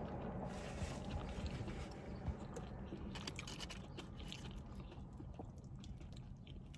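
A person chewing food with the mouth close to the microphone, with small wet mouth clicks scattered throughout.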